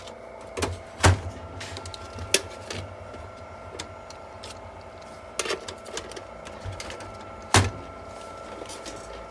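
Scattered clicks and knocks from computer parts and tools being handled on a workbench during a desktop PC repair, over a steady hum.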